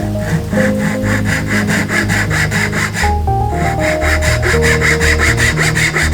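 Hand saw cutting wood in quick back-and-forth strokes, about five a second, with a short break about halfway through before the sawing resumes.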